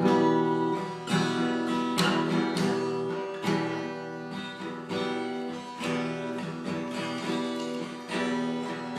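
Acoustic guitar strummed, a chord about every second, as the instrumental introduction to a song.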